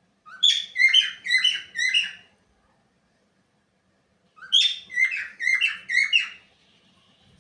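Cockatiel chirping in two bursts of four or five quick, high notes, the second burst about four seconds in.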